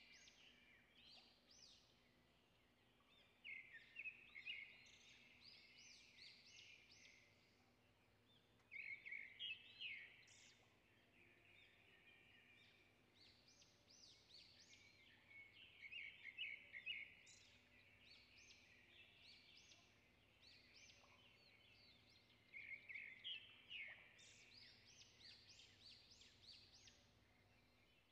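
Faint birdsong: bursts of high chirps and trills, one about every six or seven seconds, over quiet room tone.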